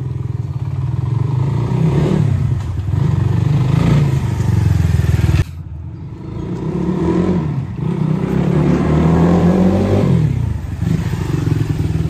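Motorbike engine running while being ridden, its pitch rising and falling as it speeds up and eases off. The sound drops suddenly about five and a half seconds in, then builds up again.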